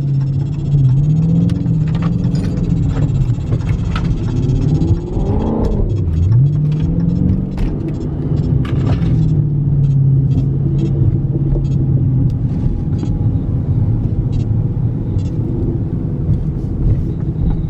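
Dodge Charger Scat Pack's 392 (6.4 L) Hemi V8 running at low speed. It dips and climbs again in a short rev about a third of the way in, with light, evenly spaced ticking in the second half.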